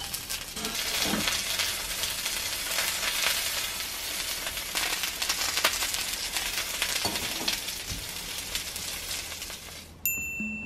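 Battered jeon sizzling in oil on a cast-iron griddle pan, a steady frying hiss, with now and then a light click of metal tongs against the pan.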